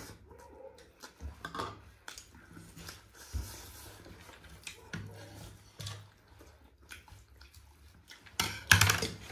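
Scattered clinks and scrapes of dishes and cutlery while eating, with a louder clatter near the end.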